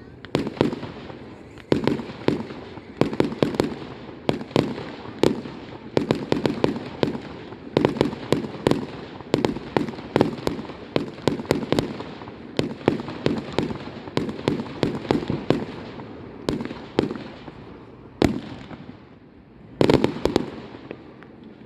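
Fireworks display: a rapid, dense run of overlapping bangs and crackles from bursting aerial shells. The bangs thin out about eighteen seconds in, then a last tight cluster of bangs follows.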